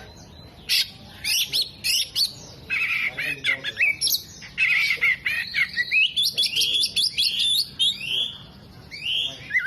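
Oriental magpie-robin singing a fast, varied song of sweeping whistles, chirps and harsh notes in quick bursts. The song is densest through the middle, with a short pause near the end before it picks up again.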